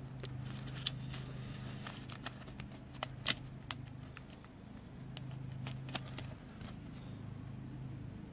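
Trading cards and plastic holders being handled: scattered light clicks and rustles, the sharpest about three seconds in, over a steady low hum.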